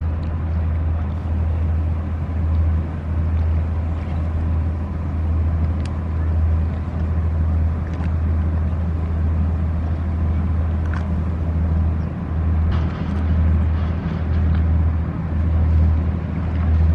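Inland cargo ship's diesel engine running with a steady low drone that swells and eases slightly.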